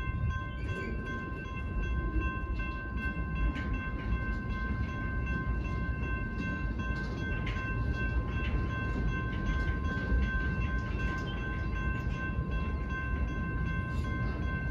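Freight train of empty centerbeam flatcars rolling through a grade crossing: a steady low rumble with scattered clicks of wheels over the rail joints. Over it the crossing's warning bell rings on without a break.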